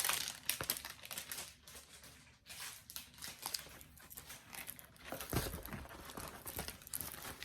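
Crinkling and rustling of a diamond painting canvas and its plastic packaging being handled, in irregular crackly bursts, louder at the start and again a little past halfway.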